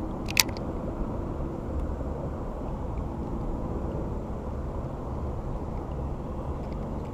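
Steady low rumbling outdoor noise with one sharp click about half a second in.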